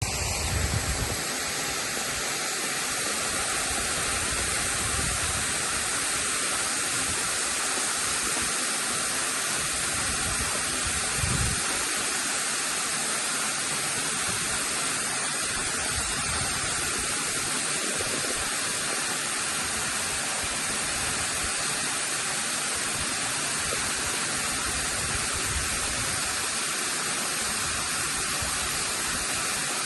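Waterfall rushing steadily, a constant hiss of falling water, with a brief low bump about eleven seconds in.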